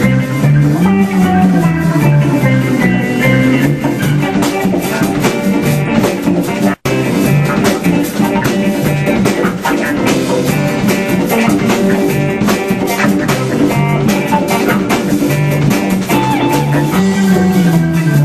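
Live band playing an instrumental passage: guitar over bass and drums, with no vocals. The sound cuts out for an instant about seven seconds in.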